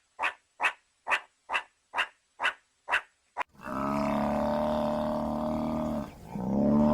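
An animal calling: a quick run of short rasping calls, about two and a half a second, then two long, drawn-out pitched calls.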